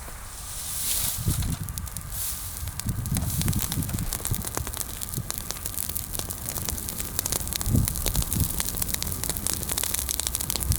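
Bonfire of freshly pruned branches, mostly green wood, crackling with many irregular sharp pops and snaps.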